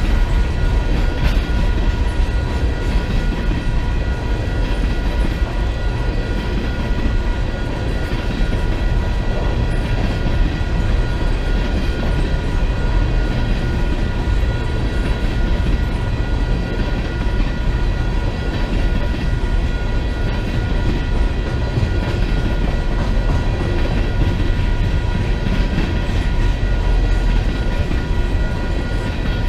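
Train cars rolling past: a loud, steady rumble of wheels on rail, with a few thin, steady high tones over it.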